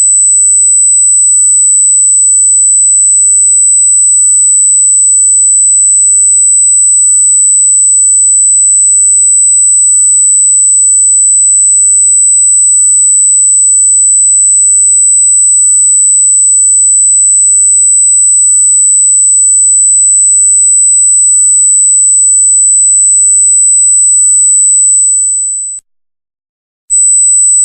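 A loud, high-pitched steady electronic sine tone that drones unchanging, cuts out about 26 seconds in, then returns briefly for about a second near the end.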